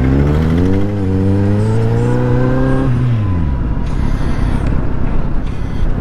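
Superbike engine accelerating, its pitch climbing steadily for about three seconds before the revs drop away as the throttle closes, leaving road and wind noise.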